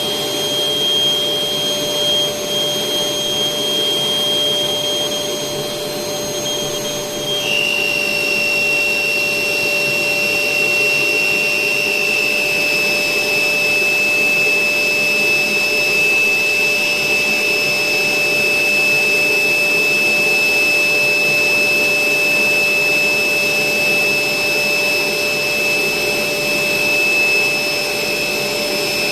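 Electric air blower running steadily, inflating a giant balloon. Its whine drops slightly in pitch about seven seconds in.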